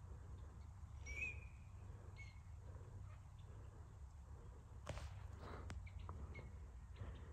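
Faint short bird chirps, a few scattered calls, over a low rumble, with a sharp crack about five seconds in from a step in the dry brush.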